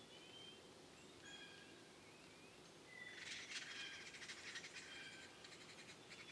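Faint forest birdsong of short whistled notes. From about three seconds in comes a couple of seconds of harsh, rapid chattering, typical of yellow-bellied sapsucker nestlings begging in the nest cavity.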